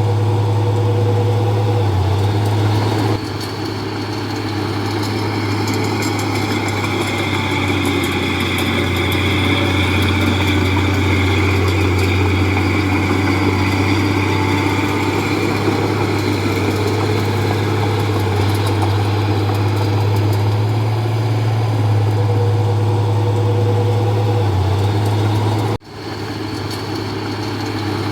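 Heavy diesel engine of earth-moving machinery running steadily with a strong low hum. The level drops about three seconds in, and the sound cuts out for an instant near the end.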